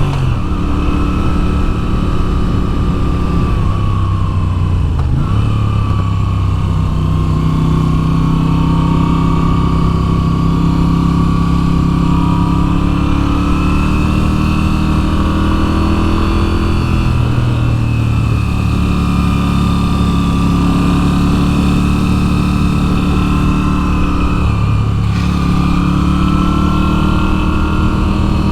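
Moto Guzzi V7's 850 cc air-cooled V-twin running under way, its pitch rising and falling with the throttle and dipping briefly three times at shifts or throttle lifts, over a steady rush of wind noise.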